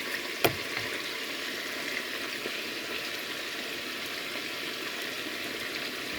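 Steady sizzling hiss of food cooking in a pot on the stove, with one sharp knock about half a second in.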